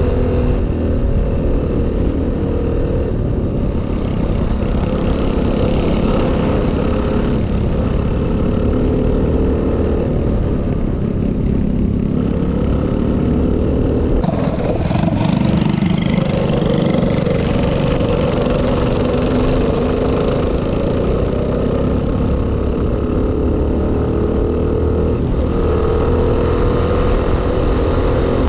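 Minibike engine running under way with wind and road noise. The engine pitch rises and falls with the throttle, and there is a brief louder rush of noise about halfway through.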